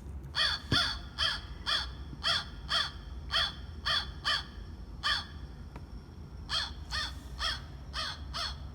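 American crow cawing: a quick series of short caws, about two a second, with a pause of about a second and a half midway before the calls resume.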